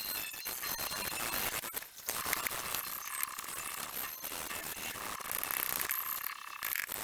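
Scratchy sanding noise on a steel knife blade, coming and going in uneven stretches, with light metallic clinks.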